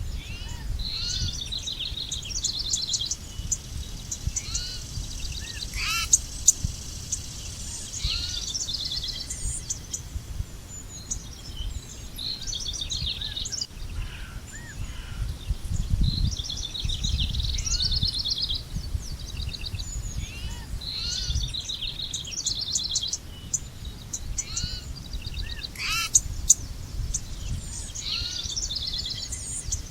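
Small songbirds chirping and trilling in quick repeated high notes, several calling throughout, over a low steady rumble that swells briefly about halfway through.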